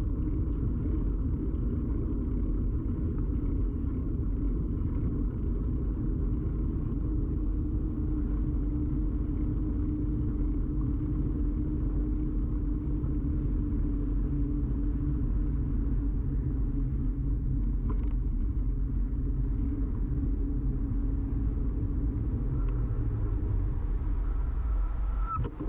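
Steady low rumble of a moving bicycle, picked up by a camera fixed to the bike: tyre and frame vibration carried through the mount. It drops off abruptly near the end.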